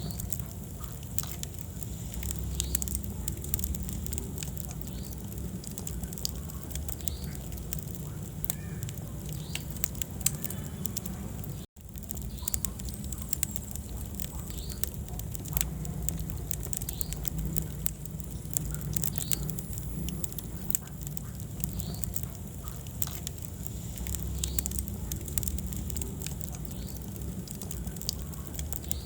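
Wood fire burning in a fireplace: a steady low rumble of flames with frequent sharp crackles and pops from the burning logs. The sound cuts out for an instant about twelve seconds in.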